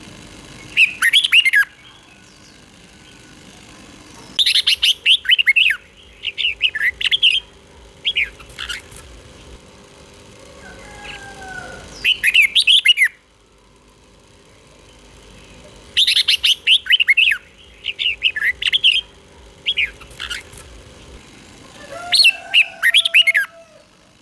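Red-whiskered bulbul singing: short bursts of quick, bright warbled notes, about nine phrases, with pauses of one to three seconds between them.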